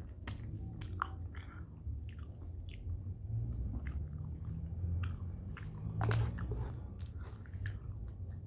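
A person chewing and biting a mouthful of white rice and chicken close to the microphone: short, irregular mouth clicks and smacks over a steady low hum, with a louder smack about six seconds in.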